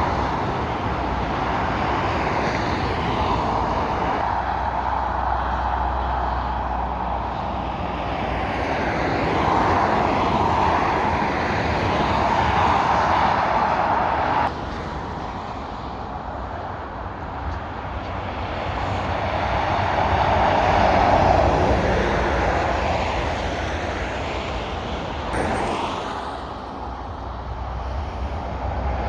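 Fast motorway traffic passing, lorries and cars. The tyre and engine noise swells and fades as vehicles go by, and the level drops abruptly about halfway through.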